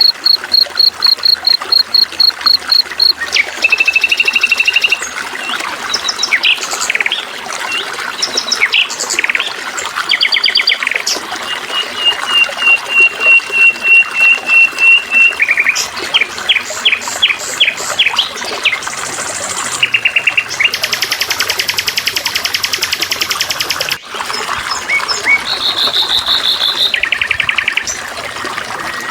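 Songbirds calling one after another over steady trickling water. There are fast repeated chirps, short trills, a long even run of notes, and a buzzing rapid trill. The calls change abruptly twice, as if separate recordings were spliced together.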